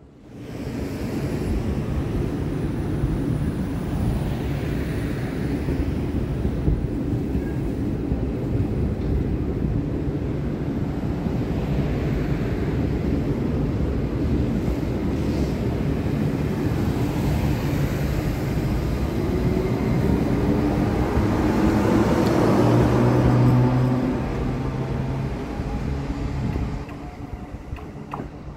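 SNCF TER Grand Est stainless-steel electric multiple unit pulling out and running past at close range: steady wheel-on-rail noise, with the traction motors whining and rising in pitch about twenty seconds in. The sound falls away near the end as the train draws off.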